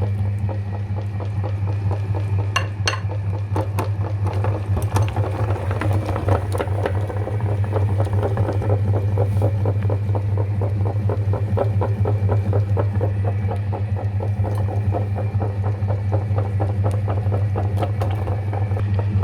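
Electric meat grinder running steadily with a low motor hum, with dense crackling clicks as chocolate is crunched through it.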